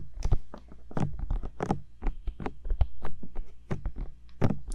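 Fingertips tapping and patting on the ears of a 3Dio binaural microphone: quick, uneven taps, several a second, each with a dull low thump.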